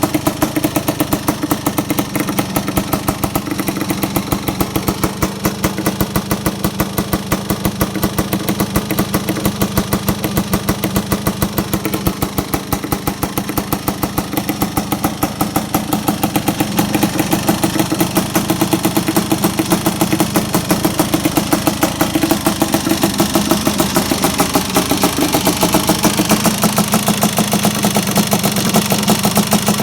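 1986 Honda ATC 250R's two-stroke single-cylinder engine idling steadily, with a fast, even firing pulse.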